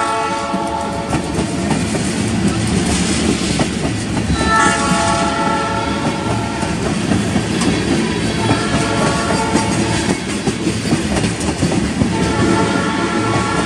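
Freight train's tank cars rolling past with a steady rumble and wheel clickety-clack. Over it, a train horn sounds four times, the blasts a few seconds apart, the last one running on past the end.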